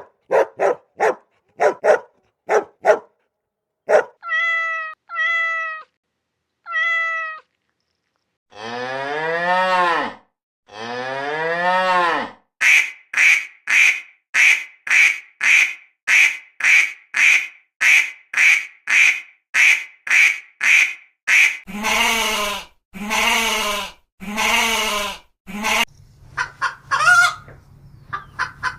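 A run of recorded animal calls, several different animals in turn: a quick series of short clicks and chirps, three short falling calls, two long wavering calls, a fast run of short repeated calls, then a few long low calls.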